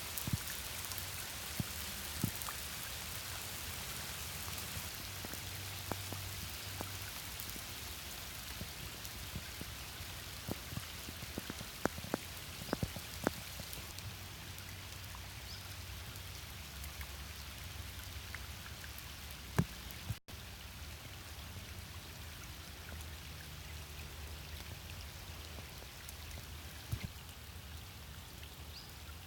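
Light rain falling steadily, with scattered individual drops striking close by as sharp clicks, a cluster of them about halfway in.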